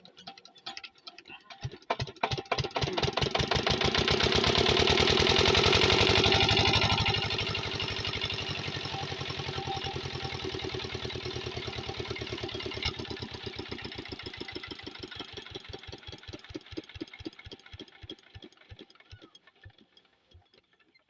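Single-cylinder diesel water-pump engine picking up speed to a loud run, then its beats slowing and spacing out as it runs down and stops near the end.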